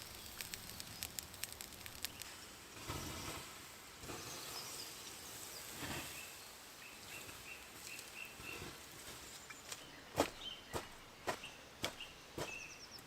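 Quiet woodland ambience with a bird calling in a run of short repeated notes in the middle, and a few sharp clicks and knocks near the end.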